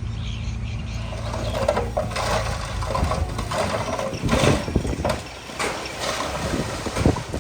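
A heavy machine's diesel engine running at low speed. After about two seconds it is joined by irregular clanks and scraping.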